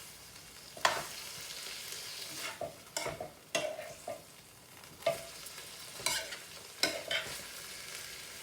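Minced chicken and sliced peppers frying in a pan with a steady sizzle, while a utensil stirs and scrapes them, striking the pan about a dozen times at an irregular pace, some strokes with a short metallic ring.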